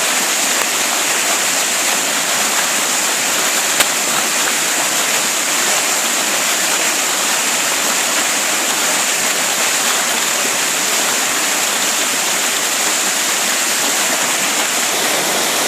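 Creek in flood: fast, high floodwater rushing steadily and evenly.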